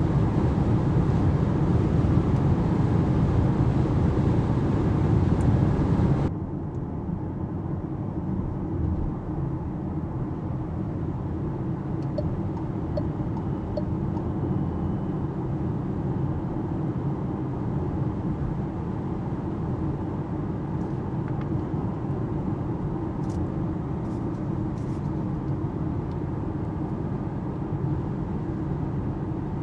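Cabin noise inside an Alpine A390 electric car driving at about 120 km/h: steady tyre and wind noise with no engine note. About six seconds in it cuts abruptly to a quieter, steady level of the same road noise, with a few faint ticks about halfway through.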